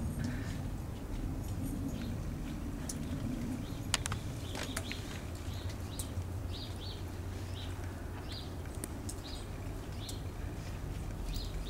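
Outdoor ambience with a steady low rumble. Small birds chirp a string of short high notes through the second half, and a few sharp light clicks come around the middle.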